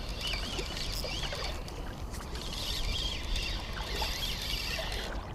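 Small birds chirping in short, wavering calls every second or so over a steady outdoor background hiss.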